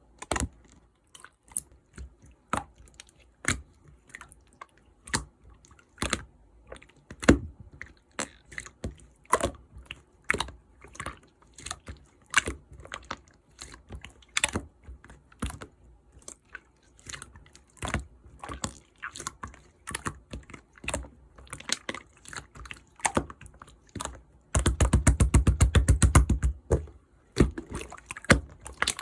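Clear slime being squeezed and folded by hand, making irregular sharp clicks and pops as air pockets burst. Near the end comes a few seconds of fast, dense clicking.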